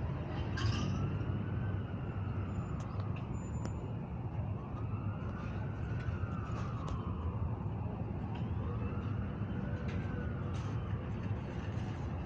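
A wailing siren, its pitch rising and falling about every four seconds, faint over a steady low rumble.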